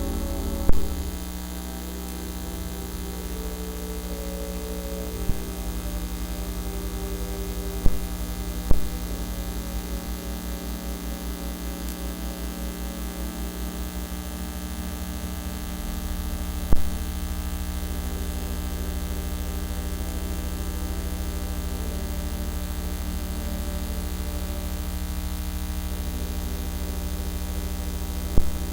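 Steady electrical mains hum and buzz in the recording, with a handful of sharp clicks or pops, the fault in the audio feed that gives the service recording its bad sound.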